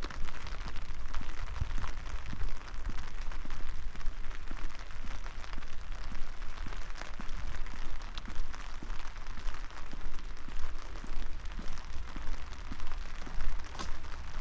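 Steady rain falling, a dense patter of many small drops, with a low rumble underneath.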